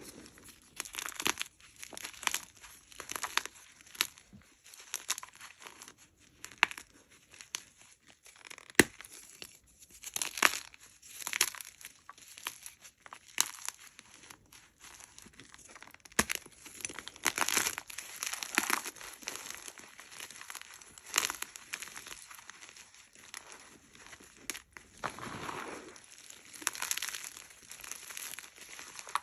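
Hard blocks of gym chalk crunched and crumbled by hand: an irregular run of crisp crunches and crackles with a few sharper cracks.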